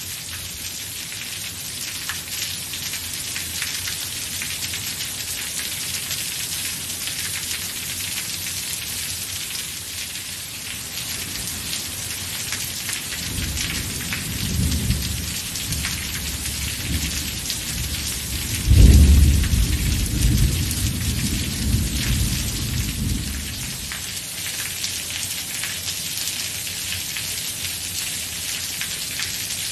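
Steady heavy rain falling. Partway through, a roll of thunder builds up, breaks into one loud clap, then rumbles away over several seconds.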